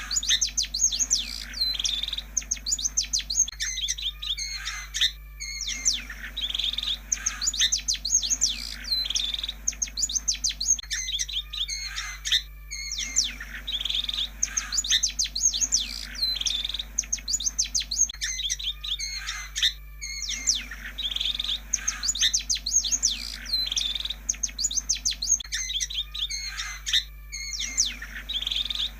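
Long-tailed shrike (pentet) song: rapid, varied chattering and whistled notes in runs of about five seconds with short pauses between them, repeating about every seven seconds like a looped recording. A faint steady hum sits underneath.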